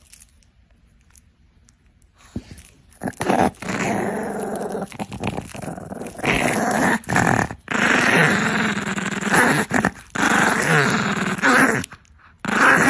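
A dog growling in long, drawn-out grumbles with short breaks, starting about two seconds in.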